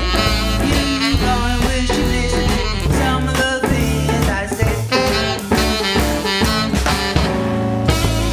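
Live blues band of electric guitar, saxophone, bass and drums playing the closing instrumental bars of a song, landing on a sustained final chord near the end.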